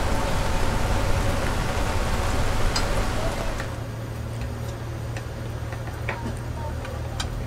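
Heavy rain falling steadily, which stops abruptly about three and a half seconds in. After that, a few light clicks of a metal ladle and chopsticks against the hotpot pan over a low steady hum.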